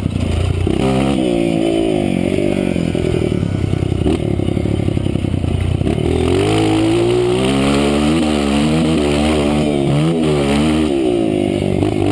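Honda CRF230 dirt bike's single-cylinder four-stroke engine revving hard under throttle, its pitch climbing and dropping over and over.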